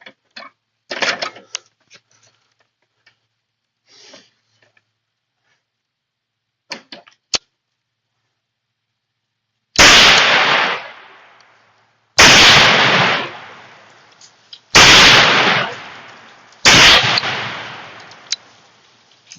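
Four loud blasts about two to two and a half seconds apart, each a sharp crack that dies away over about two seconds: Tannerite-packed pumpkins set off by gunshots. Faint clicks and handling noise come before the first blast.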